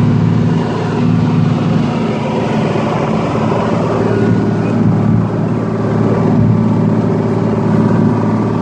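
Motorboat engine running steadily at cruising speed, an even low drone over a constant rush of noise.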